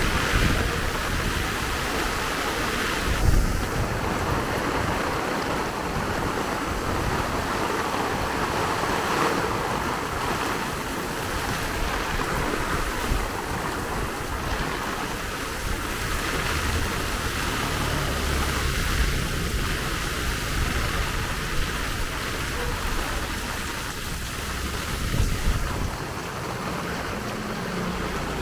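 Steady rain hissing down on a street, with the low rumble of vehicles passing on the wet road around the middle and near the end.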